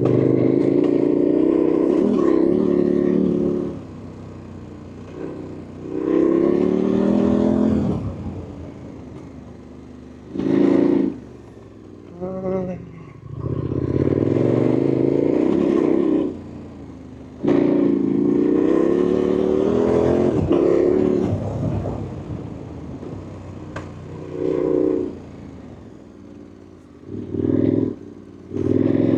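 KTM 1290 Super Adventure's V-twin engine on the throttle in repeated bursts of acceleration, revving up in pitch and falling back between them.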